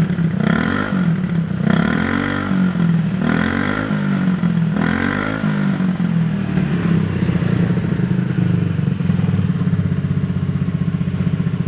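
Honda PCX125 (JF28) scooter's single-cylinder four-stroke engine breathing through a custom aftermarket muffler, blipped four times in quick succession and then settling into a steady idle about halfway through.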